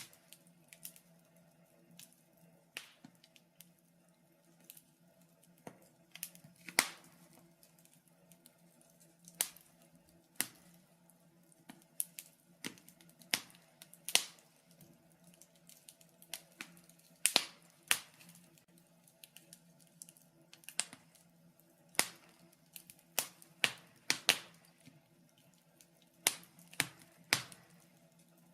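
Wood fire crackling in a fireplace: irregular sharp pops and snaps of burning logs, some much louder than others, over a faint steady low hum.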